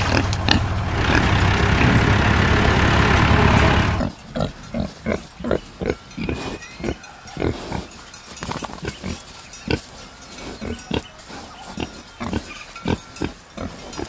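Domestic pig sounds: a loud, continuous stretch for the first four seconds that cuts off suddenly, then a run of short grunts, two or three a second.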